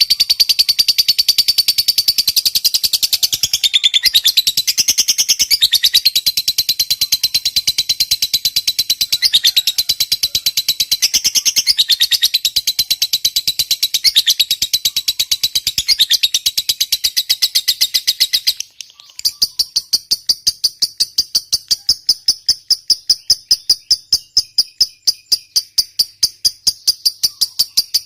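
Lovebird giving a long 'ngekek' trill, a fast continuous chatter of high-pitched notes. About two-thirds through it breaks off and a quieter, higher run of rapid pulses follows.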